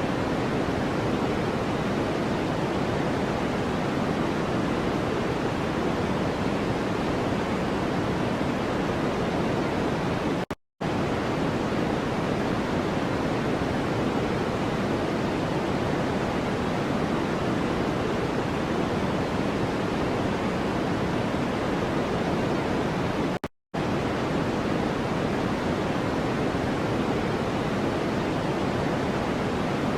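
Steady, even noise with a deep, soft hiss, its weight in the low-middle range rather than the treble. It cuts out to silence twice for a split second, about ten and twenty-three seconds in.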